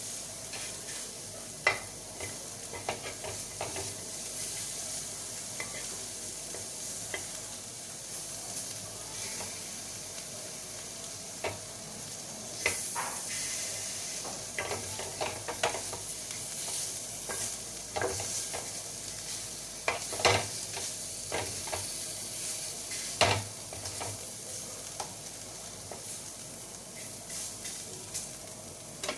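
Boneless chicken kebab pieces frying in a little butter in a kadai over a high gas flame: a steady sizzle, with scattered sharp clicks and knocks of a utensil against the pan as the pieces are stirred and turned.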